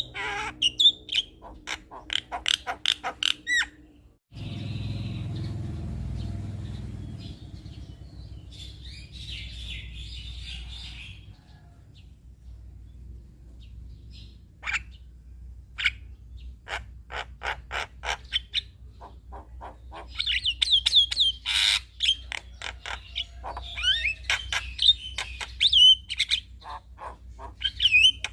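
Male Javan myna chattering song: rapid clicking notes, short whistles and squawks. It breaks off suddenly about four seconds in, followed by scattered calls over a low background rumble, and dense chattering with whistles returns about twenty seconds in.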